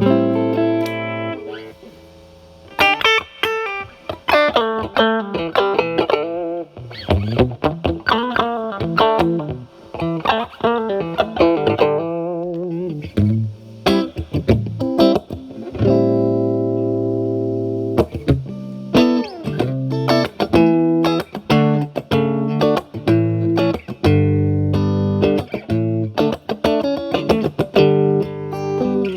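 Electric guitar, a Stratocaster with single-coil pickups, played through a Timmy transparent overdrive pedal (gain at 9) into a Marshall Valvestate amp's clean channel, giving a lightly driven tone. It plays quick picked single-note runs with a short lull about two seconds in, and lets chords ring around the middle and near the end.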